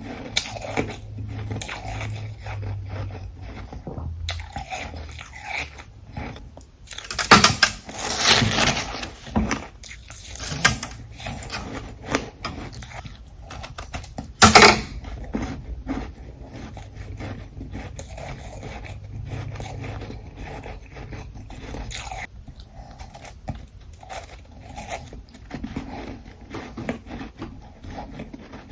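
A person biting and chewing ice close to the microphone: irregular crunching and crackling throughout. The loudest crunches come about a quarter of the way in, with one sharp crunch about halfway through.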